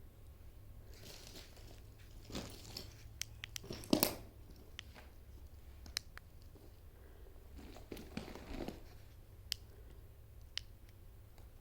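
Quiet listening pause: a steady low hum with a few brief faint rustles, the strongest about four seconds in, and a handful of sharp isolated clicks.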